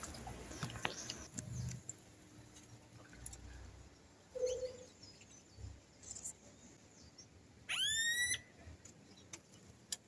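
A single bird call about eight seconds in: one rising, whining note lasting under a second, over a quiet background with a few faint knocks.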